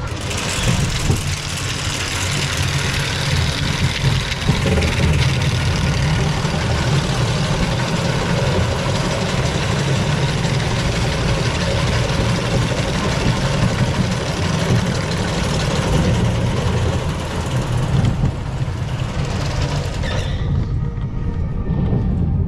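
Reverchon family roller coaster train running along its track, heard on board: a steady rushing noise over a strong low rumble from the wheels. About twenty seconds in, the high rushing drops away and the low rumble carries on.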